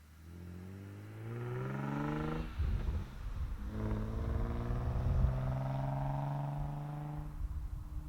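Nissan 350Z's VQ35 V6 through an Invidia Gemini cat-back exhaust, heard from a microphone at the rear, accelerating hard with rising pitch through one gear. It breaks off for the upshift about two and a half seconds in, then pulls up through the next gear and eases off to a steady tone near the end.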